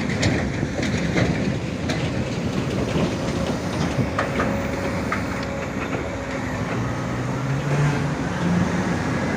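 Komatsu PC205-10M0 hydraulic excavator working, its engine running under a dense mechanical rumble with scattered metallic clanks and knocks. The engine pitch rises in steps over the last couple of seconds.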